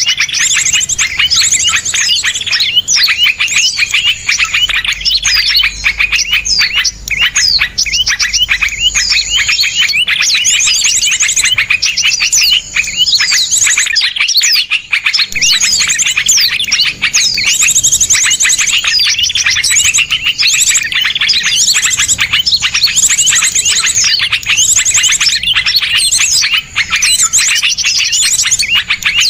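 Many small songbirds chirping and trilling in a dense, rapid stream of sharp notes: fast repeated 'shots', rattling trills and quick pitch sweeps with almost no pauses, briefly thinning about halfway through. This is 'masteran', recorded song of small birds used to teach song to cage birds.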